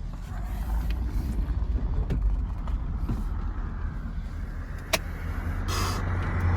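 Ford 6.7 Powerstroke V8 turbo-diesel pickup driving, a steady low engine drone under road noise that grows louder near the end, with a sharp click about five seconds in.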